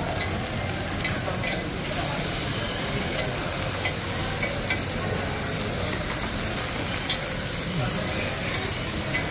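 Lamb sizzling on a hot Genghis Khan grill: a steady frying hiss with a few short, sharp pops or clicks scattered through it.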